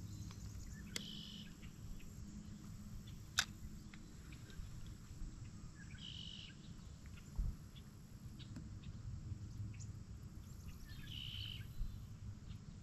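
A bird gives a short call three times, about five seconds apart, over a low steady rumble of wind and water. A sharp click comes about three seconds in and a low knock about halfway through.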